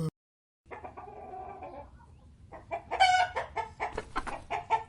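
Hen clucking: quieter calls at first, then a run of louder, quick clucks from about halfway through, three or four a second.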